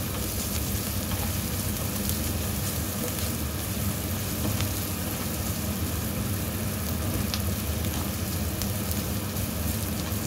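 Chopped onion, garlic and ginger sizzling steadily in hot oil in a frying pan, stirred with a silicone spatula, with a few faint clicks as it scrapes the pan. A steady low hum runs underneath.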